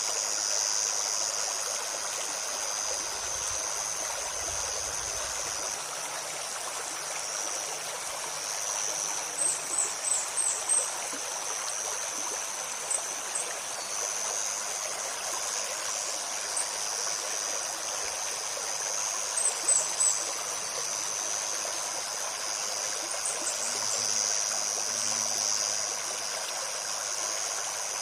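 Shallow forest stream babbling steadily over stones, with a steady high-pitched buzz and short clusters of high bird chirps at about ten, thirteen, twenty and twenty-four seconds in.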